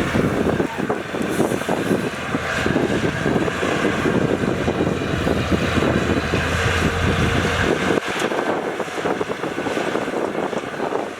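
Heavy diesel construction machinery running steadily, with a low steady drone joining for a few seconds past the middle.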